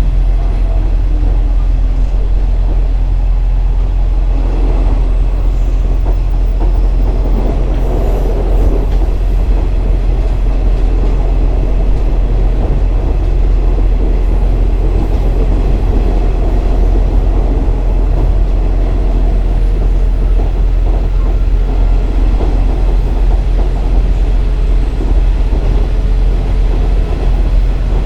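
KiHa 47 diesel railcar under way: steady low diesel engine rumble mixed with wheels running on the rails.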